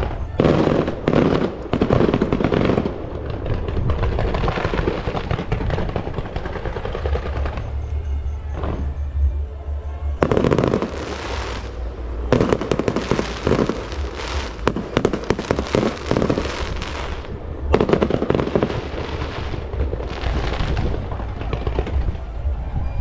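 Firecrackers and fireworks going off in rapid crackling runs, several bursts of a second or more separated by short lulls, over a steady low rumble.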